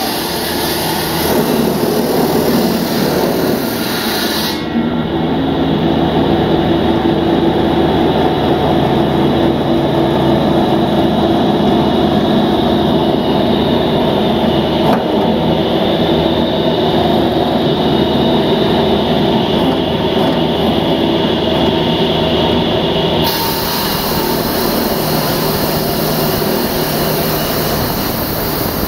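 Loud, steady engine drone with a rushing haze over it, running evenly and without a break.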